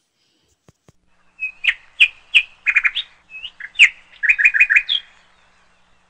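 Small birds chirping: a string of sharp, high calls, ending in a quick run of four notes. These are the calls of a mother bird returning to her grounded fledgling.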